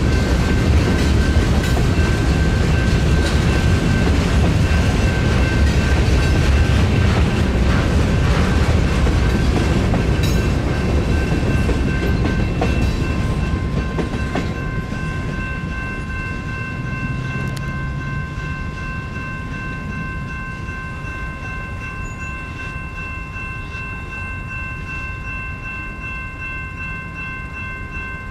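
Freight train cars rolling through a grade crossing, with wheels rumbling and clattering on the rails, the noise fading about halfway through as the last car passes. Railroad crossing warning bells ring steadily throughout.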